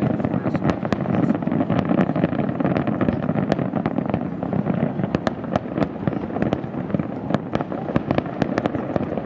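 Fireworks finale barrage: a continuous rumble of overlapping shell bursts, with many sharp cracks and crackles on top.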